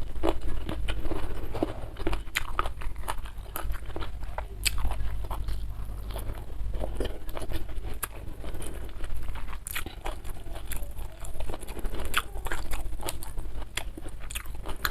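Close-miked chewing of crunchy food, with many sharp irregular crunches and mouth clicks.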